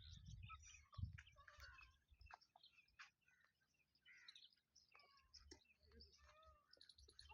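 Faint chirping of several small birds, short high notes scattered throughout, with some low rumbling thumps in the first two seconds.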